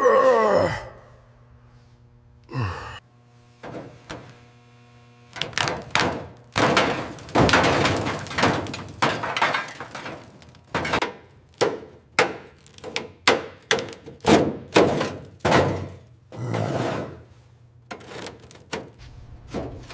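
A falling whoosh, then a long run of irregular knocks and thuds, a few a second.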